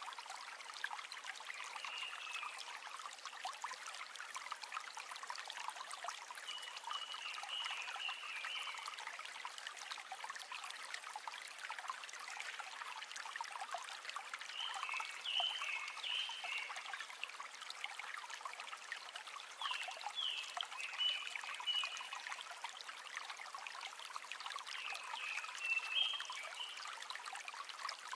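River water trickling and babbling steadily over stones, a light, hissy rush without low rumble. Short chirping calls from an animal break in every few seconds.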